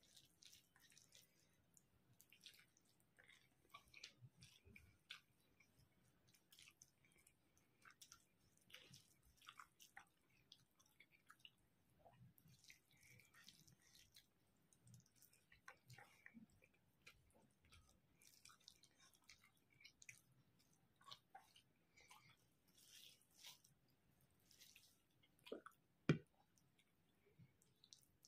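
Faint chewing and wet mouth sounds, with soft squishes of fingers mixing rice and curry on a plate, and one sharper click near the end.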